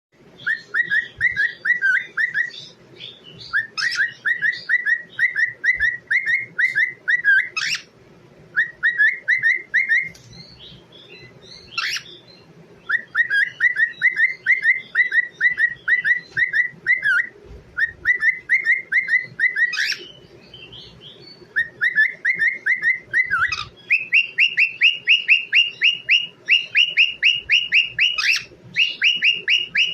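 Baby parrot whistling: fast runs of short, repeated chirping notes, about five a second, each run lasting a couple of seconds with short pauses between. The runs go higher in pitch for the last few seconds, and a few sharp clicks stand out among them.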